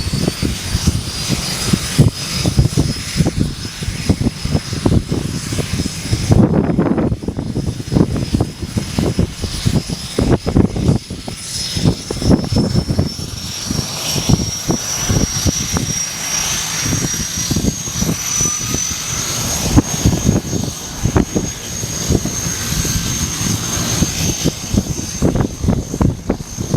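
DHC-6 Twin Otter's Pratt & Whitney PT6A turboprop engines running after start, a high turbine whine slowly rising in pitch over a rough, uneven low rumble of the propellers.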